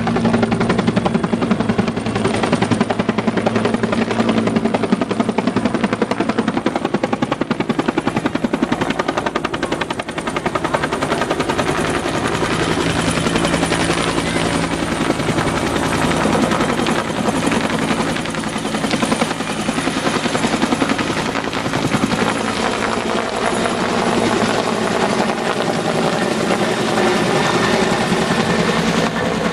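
Helicopter running steadily, a fast rotor chop over a steady engine drone with a faint high whine above it.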